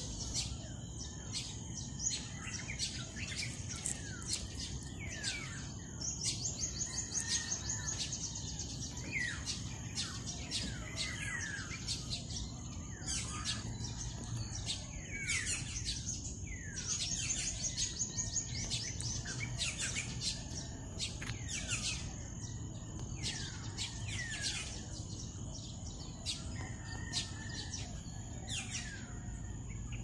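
Wild birds calling in trees, with many sharp downward-sweeping chirps repeated all through and a few rapid trilled runs of notes, over a steady low outdoor rumble.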